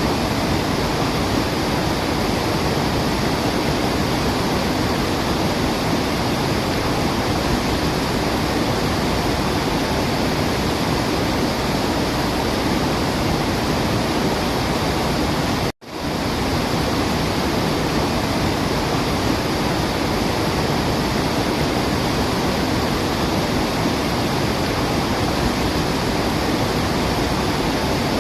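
Steady rushing of a waterfall, an even wash of falling water. About halfway through it cuts out abruptly for a split second, then comes straight back.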